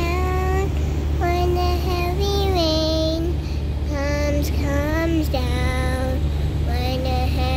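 A child's high voice singing held notes that slide up and down, over a steady low hum.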